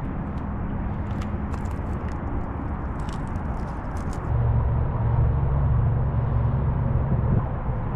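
Wind rumbling on the microphone while riding a bicycle, with road noise under it; the rumble grows stronger about halfway in. A few light clicks in the first half.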